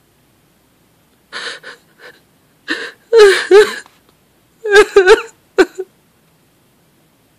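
A person's wordless vocal sounds: a few short breathy gasps, then louder pitched cries that waver in pitch and break off, in several bursts starting about a second and a half in and stopping just before six seconds.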